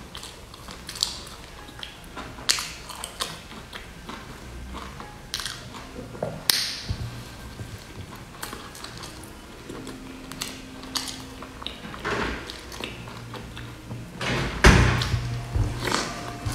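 Close-miked chewing and wet mouth sounds of a person eating a soft filled roll, with scattered small clicks and smacks. A louder burst comes near the end.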